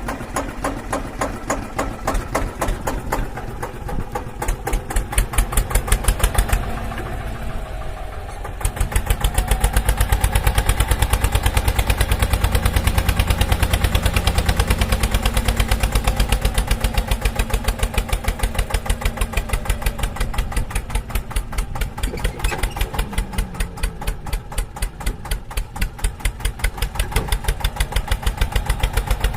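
Small tractor-type engine running with a steady, rapid puttering beat. It dips for a moment about a quarter of the way in, then runs louder for several seconds before easing back.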